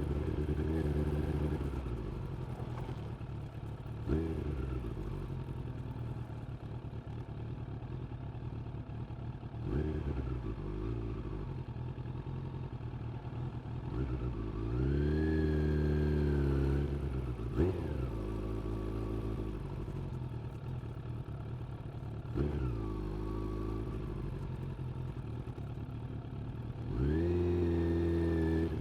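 Suzuki GSX-600F's inline-four engine on the move: long stretches of low, steady running broken by four short rises in revs, the longest held for about two seconds in the middle, with a few short sharp clicks in between.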